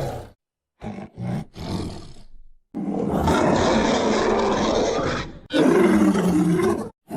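Cave bear creature sound effects: three short growls, then a long roar and a second, shorter roar whose pitch dips and rises again.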